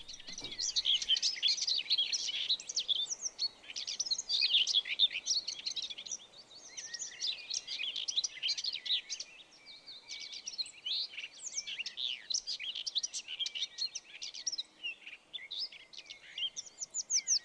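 Small birds chirping and twittering continuously: a dense run of short, rapid high chirps and trills.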